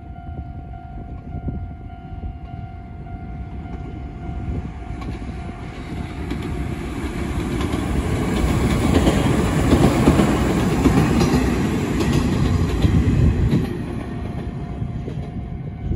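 Three-car Izuhakone Railway electric train passing close by on the track. It grows louder as it approaches, is loudest in the middle for several seconds with faint clattering of the wheels, then fades as it moves away.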